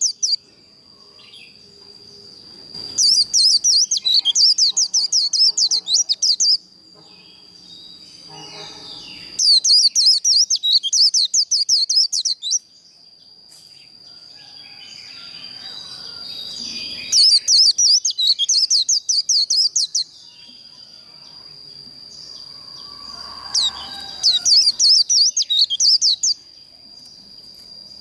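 White-eye (vành khuyên) singing its fast 'líu' song: four bursts of rapid, high chattering trills, each lasting about three seconds, with short quieter pauses between them. A thin, steady high tone runs underneath.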